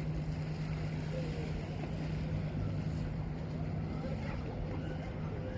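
A motor running steadily: a constant low hum over a rumble.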